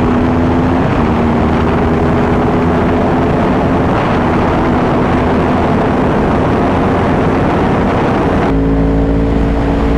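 Yamaha YZF-R1 crossplane inline-four sport bike engine running hard at fairly steady high revs, its pitch shifting slightly now and then, under heavy wind rush on the helmet microphone. Near the end the wind hiss drops sharply and the low rumble comes forward.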